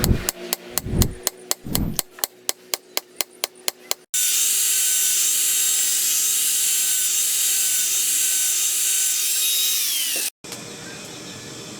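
A fast, even run of sharp metal strikes, about five a second, then a steady, loud grinding noise from a power tool whose whine drops in pitch as it winds down near the end.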